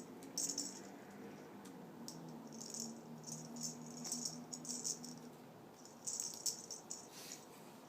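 A small toy rattle jingling in short, repeated bursts as it is batted or shaken, with a low steady hum under the first five seconds.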